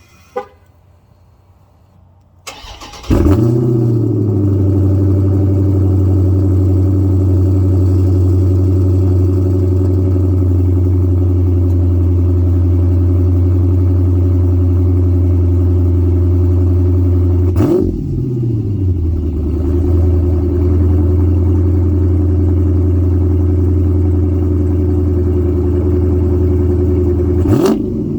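Dodge Challenger Scat Pack's 6.4-litre 392 HEMI V8 cold-starting through a Black Widow exhaust with the resonators deleted: a short crank about two and a half seconds in, catching with a flare, then a loud, steady fast idle. The idle dips briefly and recovers about two-thirds of the way through and again near the end.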